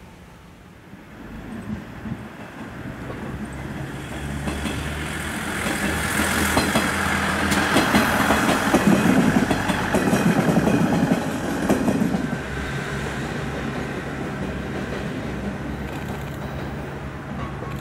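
Passenger train passing close by, its wheels clicking over rail joints, with a steady low engine hum underneath. It builds up, is loudest in the middle as the cars go past, then eases off.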